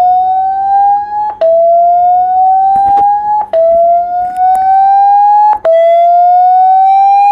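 A Xiaomi phone's loudspeaker playing the MIUI Clear Speaker tone at maximum volume, meant to shake dust out of a blocked speaker. It is a loud tone that climbs slowly in pitch, drops back with a click and climbs again about every two seconds.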